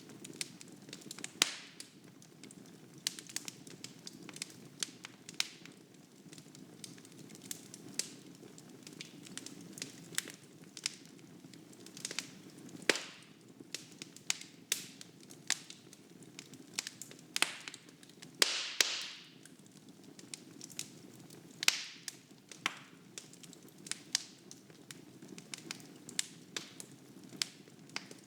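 Wood fire burning in a fireplace, crackling and popping irregularly over a steady low rumble of flames, with a longer hiss about two-thirds of the way through.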